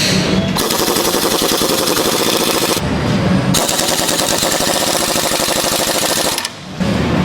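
Welding arc crackling in two long, even runs of rapid crackle, with a break of under a second about three seconds in.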